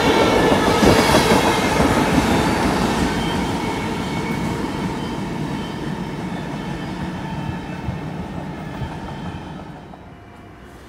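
Freight train of tank cars rolling past on the rails, its sound fading steadily as it moves away, then dropping off suddenly near the end.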